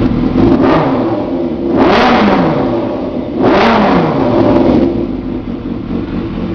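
Yamaha YZF600R's inline-four engine with a D&D aftermarket exhaust idling and being revved: a small blip, then two quick revs about a second and a half apart, each dropping back to idle.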